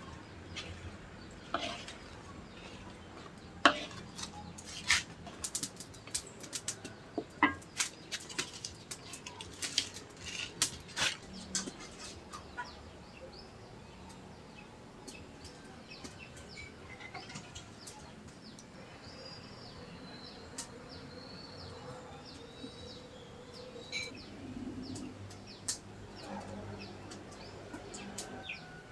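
A quick, irregular run of sharp knocks and clatters for about the first twelve seconds, then quieter, with faint high chirps of birds.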